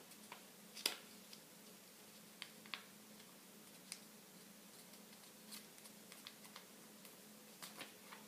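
Square sheet of paper being folded and creased by hand, giving faint, scattered crinkles and crisp ticks, the sharpest just under a second in, over a faint steady hum.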